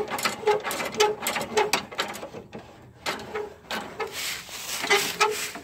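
Toro 421 snowblower's discharge chute being turned by hand, squeaking in short repeated chirps about twice a second amid clicks: the chute's swivel is dry and needs fresh grease.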